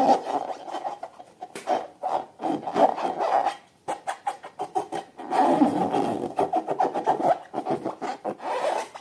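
Slime being squeezed and worked by hand: a dense run of sticky crackles and small pops, with a short pause partway through.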